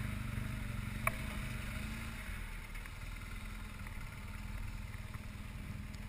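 Motorcycle engine idling steadily at low revs, with a single sharp click about a second in.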